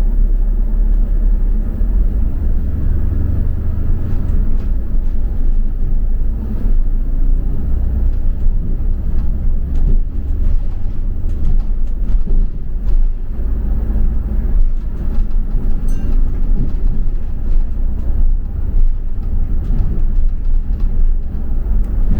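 Double-decker bus on the move, heard from inside: a steady low rumble of engine and road noise, with small rattles and knocks.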